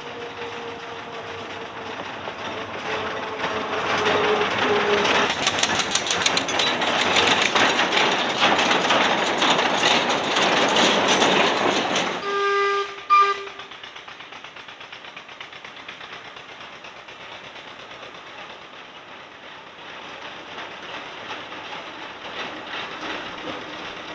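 Small narrow-gauge diesel locomotive running past with a train of skip wagons: its engine note drops slightly, then the wagons rattle and clatter loudly over the rail joints for several seconds before cutting off abruptly about halfway through. A short horn sounds twice just after, and then only a low background remains.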